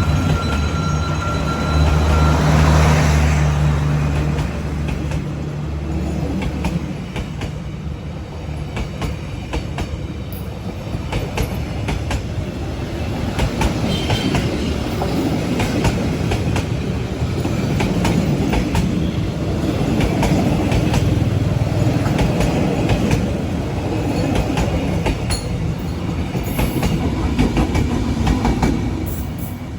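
A passing train: the diesel locomotive's engine drones low for the first several seconds and fades, then the carriages roll by with wheels clacking steadily over the rail joints.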